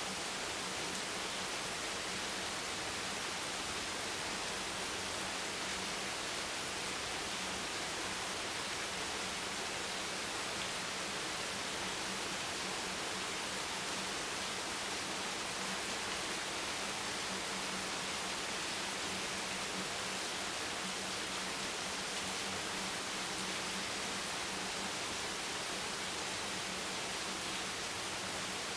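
Steady, even hiss of rain, with no separate drops or thunder standing out, and a faint low hum underneath.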